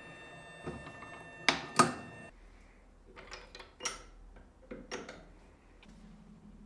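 Steel parts and tools clinking and knocking on a workbench: two sharp metallic clanks about a second and a half in, then a few lighter taps. A faint steady hum cuts off suddenly a little after two seconds.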